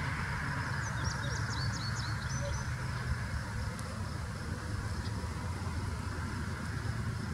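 Steady low rumble of an approaching Amtrak diesel passenger train still some way off, with a bird's quick run of chirps about a second in.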